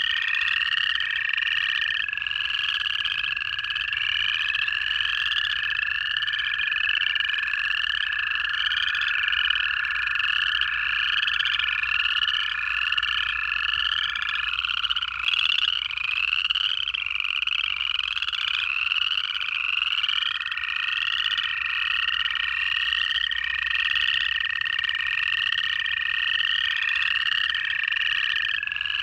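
Dense pond chorus of upland chorus frogs, many overlapping rising trills repeating continuously. Under them, American toads give long, level trills lasting many seconds; one drops out about halfway through and another starts a few seconds later.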